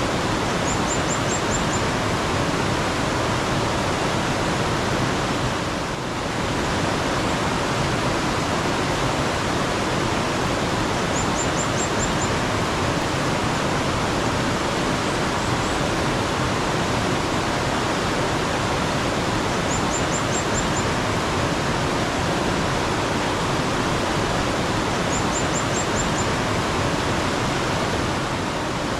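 Running water of a mountain stream, a steady rushing. Over it a small bird repeats a short, high call of about five quick notes, four or five times.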